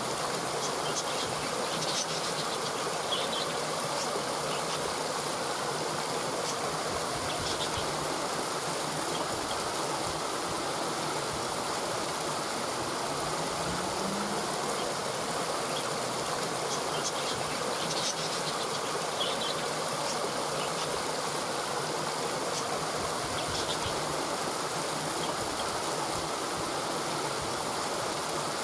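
Steady rushing of a flowing stream, with short high-pitched sounds coming and going now and then.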